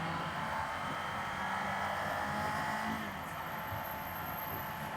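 Kawasaki Z500 parallel-twin motorcycle engine running at a steady, even pace while riding, with road noise.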